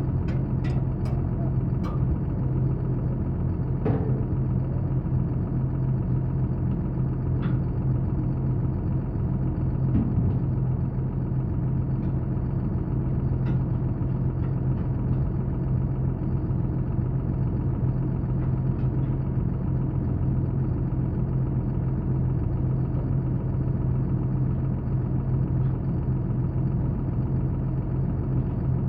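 An engine idling steadily with an even low hum, with a few light clicks or taps in the first several seconds.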